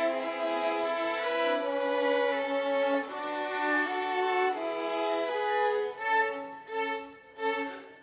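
Violin ensemble playing an instrumental passage between sung verses of a hymn, a melody of held notes; from about six seconds in the notes grow shorter and quieter.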